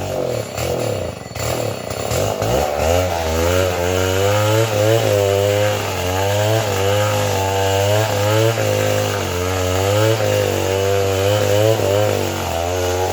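An engine running at high speed, its pitch wavering up and down as if under changing load.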